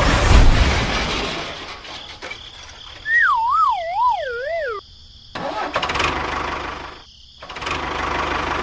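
Engine-like running noise, broken by a wobbling whistle tone that falls in pitch about three seconds in. The sound cuts out suddenly twice before the running noise returns.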